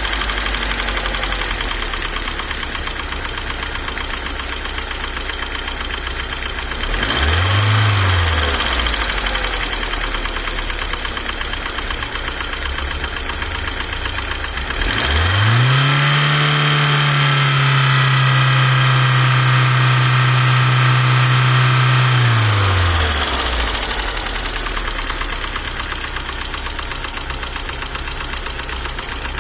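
Car engine idling with a ticking from its hydraulic valve lifters. The revs rise and fall once briefly about a quarter of the way in, then rise again and are held for about seven seconds before dropping back to idle. The owner finds that the lifter knock does not depend on oil pressure.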